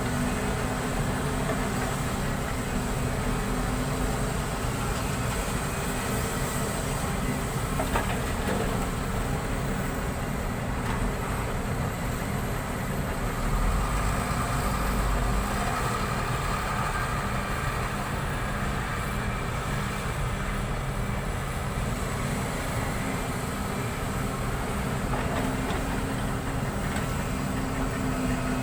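Steady rumble of a moving vehicle with a few faint clicks.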